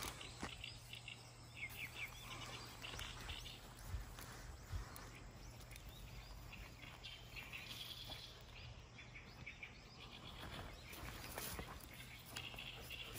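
Small birds chirping on and off in short calls over a steady low outdoor background hum, with a couple of soft thumps.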